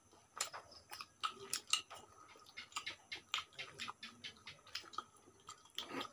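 People eating by hand at close range: wet chewing and lip smacks, heard as a quick, irregular run of short clicks.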